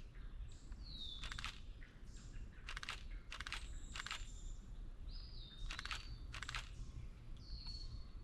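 Wild birds calling with short whistled notes, a few sliding down in pitch, with about six brief crunches spread through.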